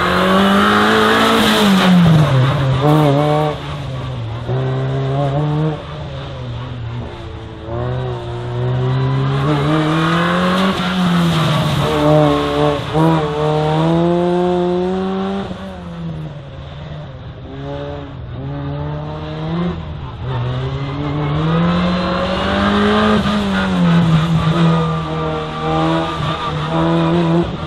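Ford Fiesta race car's engine revving hard and easing off again and again as it accelerates and brakes between slalom cones, its pitch climbing and dropping several times.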